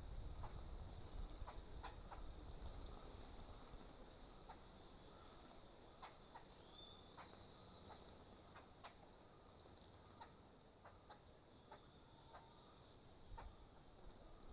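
Faint bird sounds: scattered short clicks and chirps, with one brief higher chirp about seven seconds in, over a steady high-pitched hiss.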